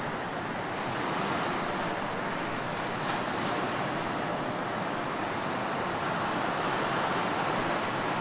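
Ocean surf breaking and washing on a beach, a steady rushing wash that swells gently, with a brief sharper splash about three seconds in.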